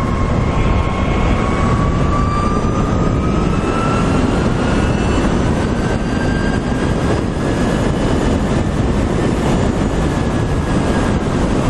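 Electric motorcycle riding at speed: heavy wind rush on the microphone, with the electric drive's thin whine rising in pitch over the first several seconds as it speeds up, then holding steady.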